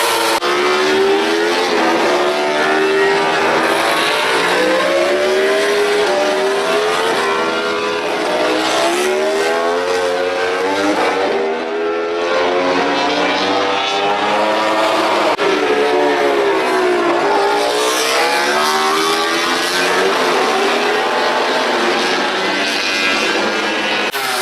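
MotoGP racing motorcycle four-cylinder engine at high revs, its pitch climbing and dropping again and again as it runs up through the gears and back down.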